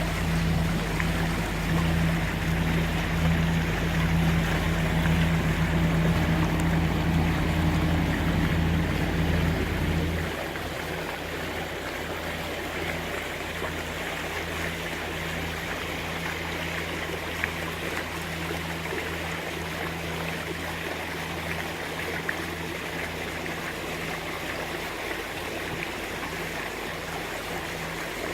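Catamaran's diesel engine running under way, a steady low hum, with water rushing past the hull. About ten seconds in the engine hum drops sharply and the water rush carries on.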